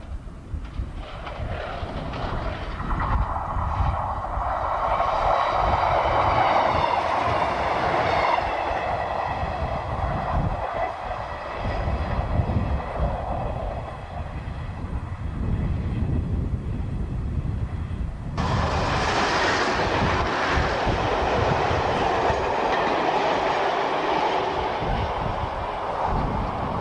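Diesel multiple-unit trains passing at speed: a Class 155 Sprinter with wheels clattering along the rails and a steady whine over the rumble. About 18 seconds in, the sound changes abruptly to a second, louder rush of wheel and engine noise from an older first-generation diesel multiple unit.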